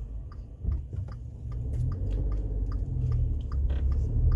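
Low rumble of a small car's engine and road noise heard inside the cabin at low speed, with faint regular ticking about three times a second.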